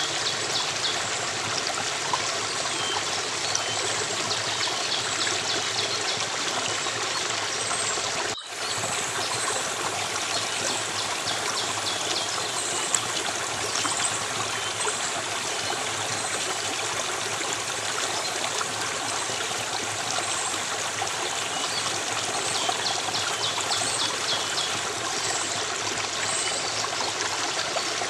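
Stream water running steadily with a constant rushing and trickling. It cuts out for a split second about eight seconds in, then carries on.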